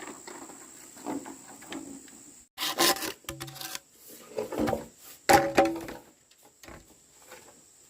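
Wood knocking and scraping against wood, in three loud rough bursts with a creaking ring about halfway through, and lighter scrapes before and after.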